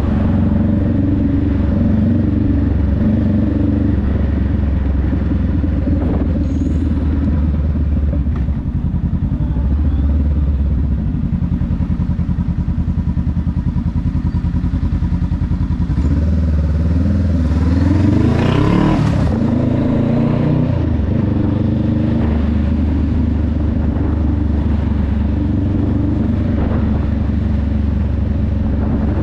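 Honda Rebel 500's parallel-twin engine running under way, mostly steady, with a rise and fall in pitch about two-thirds of the way through.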